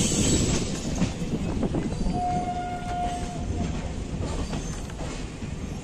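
ICF passenger coaches rolling slowly, their wheels rumbling and clacking over rail joints about once a second. A short, steady horn note sounds about two seconds in and lasts a little over a second.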